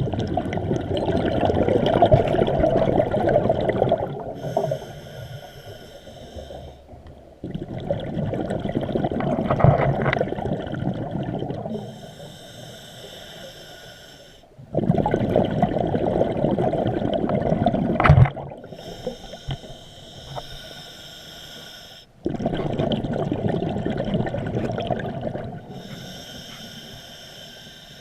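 Scuba diver breathing through a regulator underwater, about one breath every seven seconds: a rumbling rush of exhaled bubbles, then a quieter hissing inhale, repeated four times.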